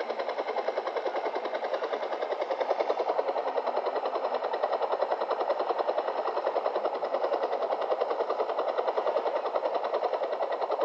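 A steady machine sound that pulses rapidly and evenly.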